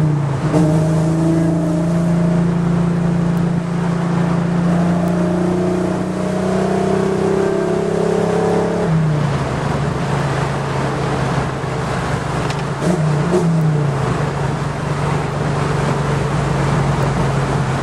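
TVR S3's Ford 2.9-litre V6 running at a steady cruise, heard from inside the cabin. About halfway through, the engine note drops to lower revs and holds steady there.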